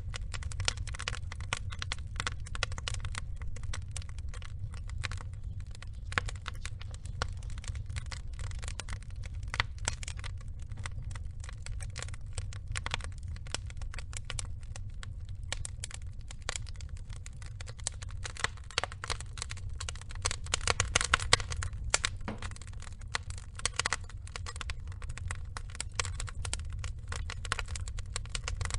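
Wood fire burning: logs crackling and popping in a dense, irregular run of snaps over a steady low rumble, with a busier, louder flurry of pops about two-thirds of the way through.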